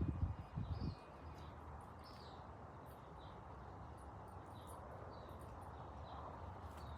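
Faint outdoor ambience of small birds chirping: short high chirps about twice a second over a steady low hiss. A few low thumps fall in the first second.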